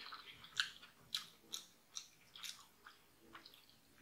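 Faint chewing of a mouthful of sausage curry stew and rice: short wet mouth clicks, about two a second.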